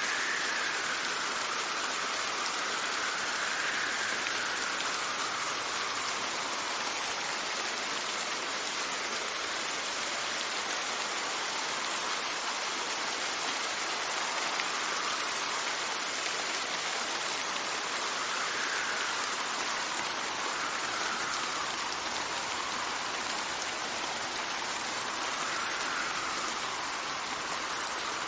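Steady rain falling, with gusts of wind whistling over it: a faint tone that slowly rises and falls in pitch several times.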